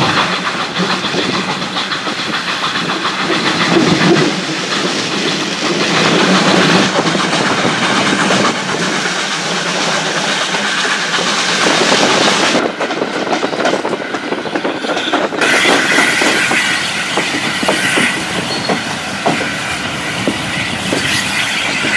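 Passenger carriage of a heritage steam train running on jointed track, heard from an open carriage window: a continuous rumble of wheels on rails with frequent clickety-clack from the rail joints.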